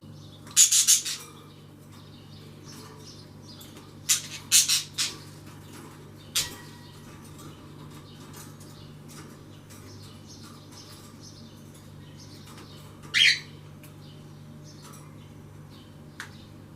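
Birds calling in short, loud chirps and squawks: a pair about a second in, a quick run of three or four around four to five seconds, one more near six and a half seconds and another near thirteen seconds, over a faint steady low hum.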